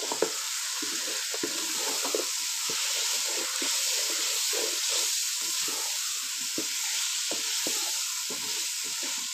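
Peas and potato cubes sizzling in hot oil and spice masala in a wok while being sautéed, stirred and scraped with a wooden spatula: a steady frying hiss with irregular soft scrapes of the spatula against the pan.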